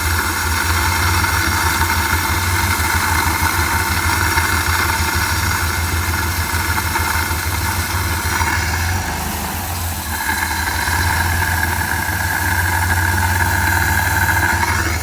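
1994 Chrysler Town & Country van engine running steadily at idle, with a steady higher hiss over it that drops out for about a second just past halfway.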